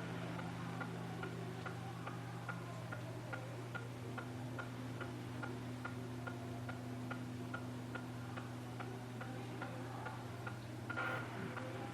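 Steady, even ticking, about three ticks a second, over a low steady electrical hum in a quiet room, with a brief soft noise near the end.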